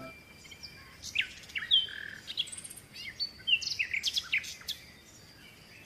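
Songbirds chirping and singing: a quick run of short, high chirps and sweeping calls starting about a second in and stopping shortly before the end.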